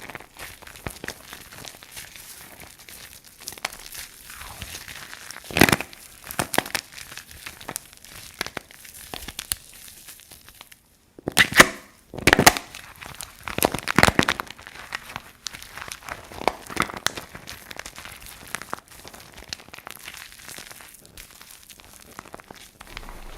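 Dry soap crunching and crackling under pressure: a steady stream of small crisp crackles, with louder crunches about six seconds in and again around twelve to fourteen seconds. A brief moment of near silence comes just before the loudest crunches.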